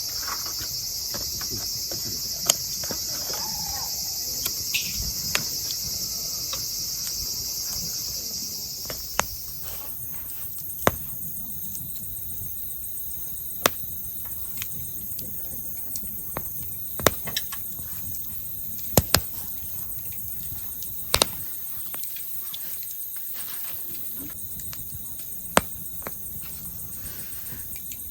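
Campfire firewood crackling, with sharp single pops every second or few. Behind it, crickets chirr steadily at a high pitch; part of the chorus drops out about nine seconds in.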